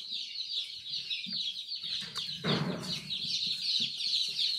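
A brooder full of day-old chicks peeping continuously, many high thin cheeps overlapping. About two and a half seconds in there is a short rustling noise, with a few soft knocks elsewhere.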